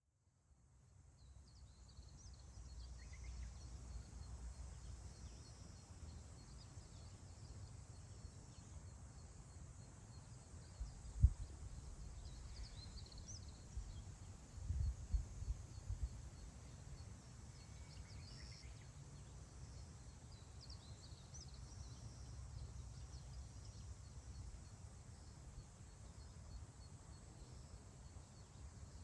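Wind on the microphone, a low rumble with one sharp buffet about eleven seconds in and a few stronger gusts a few seconds later. Small birds chirp faintly now and then.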